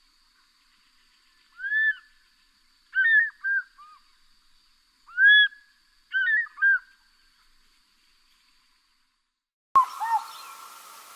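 An eagle calling: loud, ringing, arched whistled notes in short groups of one to three, repeated four times. Near the end the recording cuts to a hissier one with two more calls.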